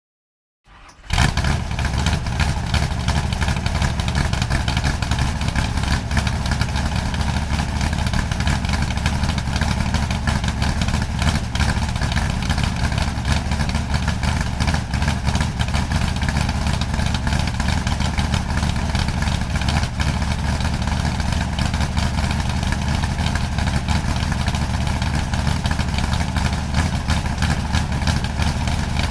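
A vehicle engine idling steadily with a deep, even rumble, coming in abruptly about a second in after silence.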